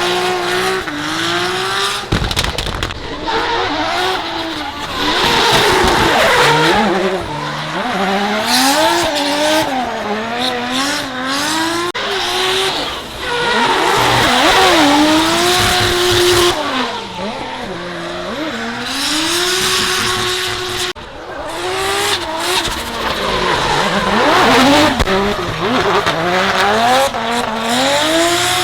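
Drift car engines revving hard, their pitch repeatedly climbing and falling as they slide through the corners, with tyre squeal and hiss from the wet track.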